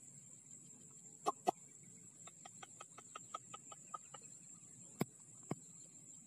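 A bird gives a quick run of about ten short, even, clucking notes, about five a second, between pairs of sharp clicks, the louder pair about a second in and another pair near the end, over a steady high-pitched drone.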